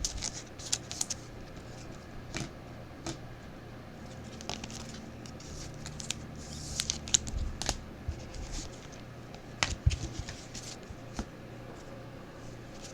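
Trading cards being handled and flipped through: scattered light clicks and slides of card stock, with a sharp click near the end.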